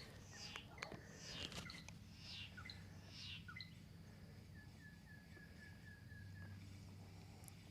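Faint birdsong: repeated high calls that sweep downward, with a quick run of about ten short chirping notes in the middle. A few faint clicks sound near the start.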